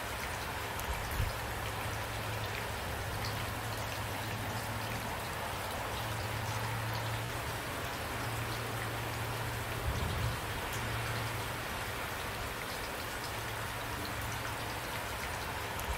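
Steady rainfall, an even patter of drops, with a couple of short low thuds about a second in and again around ten seconds in.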